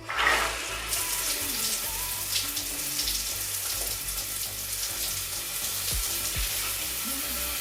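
Water spraying from a newly installed Waterpik AAD-773T dual rain shower head, a steady hiss that comes on suddenly as the water is turned on.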